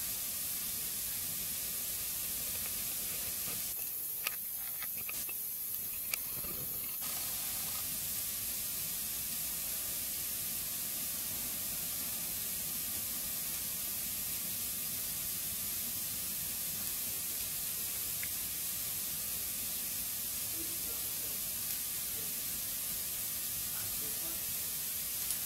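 Wood fire burning in a fireplace: a steady hiss with a few single sharp crackles from the burning wood, spaced seconds apart.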